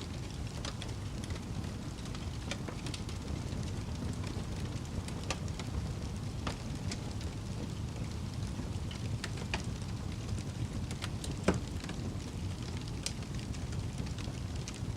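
Wood fire burning in a fireplace: a steady low rumble of flames with scattered crackles and pops, one sharper pop about eleven and a half seconds in.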